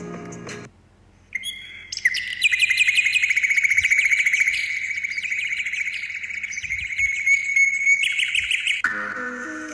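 A bird trilling: a fast, even run of chirps on a nearly steady high pitch that goes on for about seven seconds. Background music stops just before it and comes back near the end.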